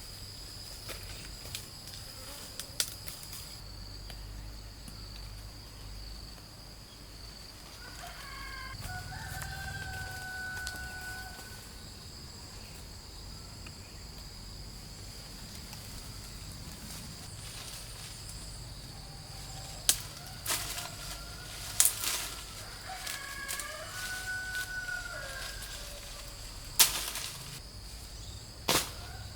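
A rooster crowing twice, first about nine seconds in and again a little after twenty seconds, over a steady high insect drone. A few sharp knocks fall in the second half.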